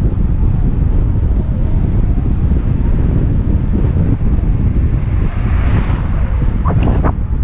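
Wind buffeting a helmet-mounted GoPro microphone while cycling, a loud steady rumble. A hiss swells for a moment about five to six seconds in, and a couple of short sharp sounds come just before the end.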